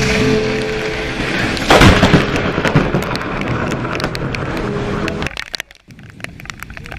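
A close lightning strike: a sharp, loud thunder crack about two seconds in, followed by rumbling noise that cuts off abruptly about five seconds in.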